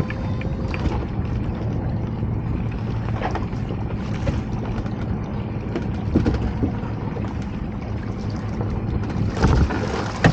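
Small boat's engine running steadily with a low hum, under wind noise on the microphone and a few short knocks.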